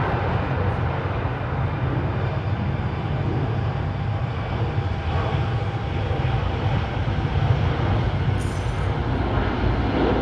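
Jet airliner engines running, a steady low rumble with no break.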